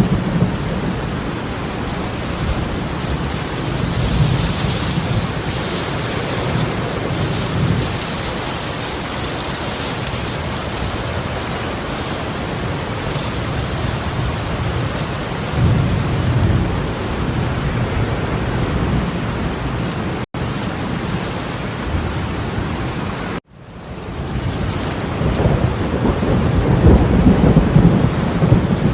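Heavy torrential rain pouring down in a steady hiss, with low rumbles swelling and fading several times. The sound cuts out abruptly twice for a moment late on, coming back the second time with a fade-in.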